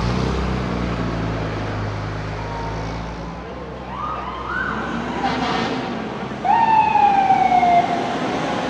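Fire truck siren sounding in short bursts: a brief rising whoop about four seconds in, then a loud tone that slides slowly downward for over a second. Before it, a heavy truck engine rumbles for about the first three seconds.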